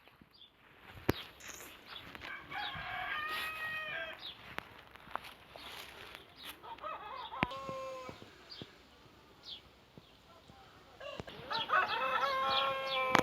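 A rooster crowing three times: about two seconds in, again around seven seconds, and a louder crow near the end. Small birds chirp faintly in between.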